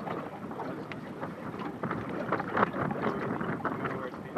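Strong gusty wind buffeting the microphone, with choppy water slapping irregularly against a boat's hull.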